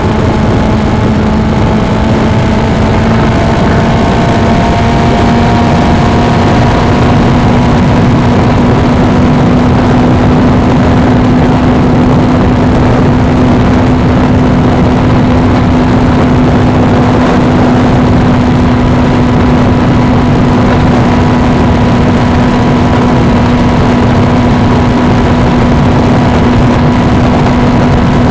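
Suzuki V-Strom 250's parallel-twin engine running at a steady cruise, its pitch rising slightly over the first few seconds, under heavy wind noise on the action camera's microphone.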